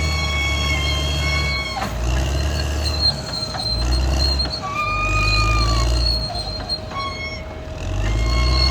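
Caterpillar D6R XL bulldozer's diesel engine running, its drone dipping and rising a few times as the load changes, with long, high squeals from the steel tracks that hold or bend slowly in pitch.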